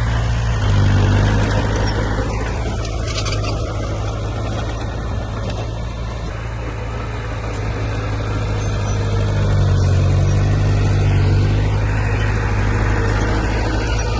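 Heavy diesel engine of earthmoving machinery running under load, getting louder about a second in, easing off in the middle, and building again near the end.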